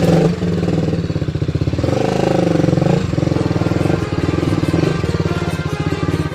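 Motorcycle engine running under way, its pitch dipping and rising again about two to three seconds in.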